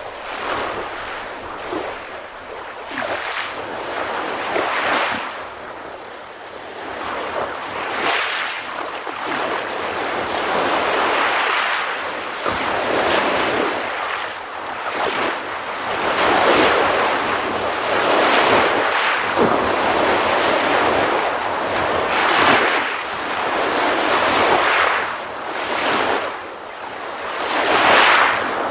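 Sea waves breaking and washing on a shore, surging and receding every couple of seconds.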